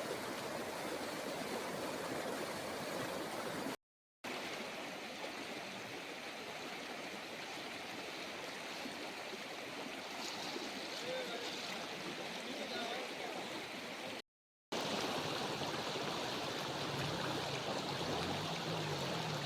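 Stream in flood rushing steadily over a submerged low causeway, with a continuous even roar of water. The sound cuts out to silence briefly twice, about 4 s and 14 s in.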